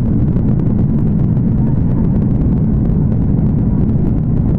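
Steady low rumble of an airliner passenger cabin, engine and air noise running evenly at a loud level.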